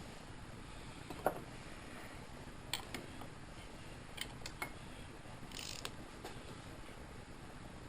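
Faint scattered clicks and taps of hand tools being handled on a workbench, about half a dozen, with a short scrape a little past the middle.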